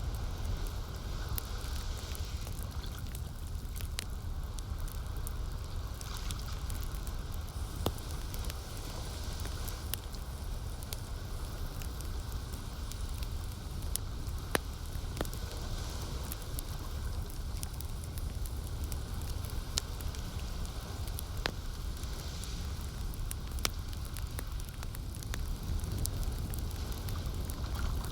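Campfire crackling, with scattered sharp pops over a steady low rumble. Lake water laps softly in gentle swells every few seconds.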